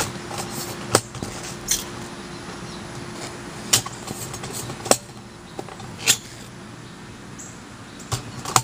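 Scattered sharp clicks and knocks, about eight spread irregularly over several seconds, of parts being handled, over a faint steady hum.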